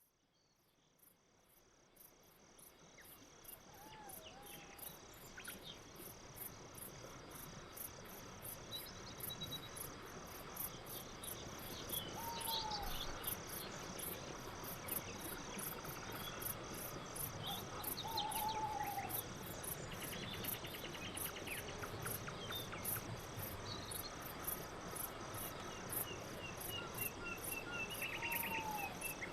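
Crickets chirping steadily in a fast, even pulse, fading in over the first several seconds. A few short arched calls from another animal sound now and then.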